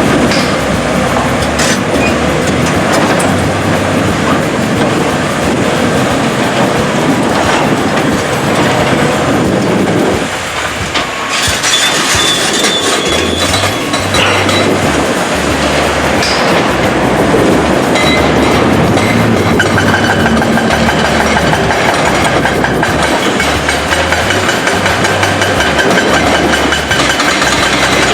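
Heavy construction machinery working, a continuous loud run of metallic clanking and rattling, with a high squeal joining in over the second half.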